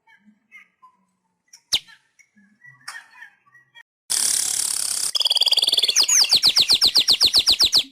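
Manyar weaver singing: a few soft scattered chips and one sharp falling note, then about four seconds in a loud hissing buzz lasting about a second, followed by a fast trill of sharp falling notes, about ten a second.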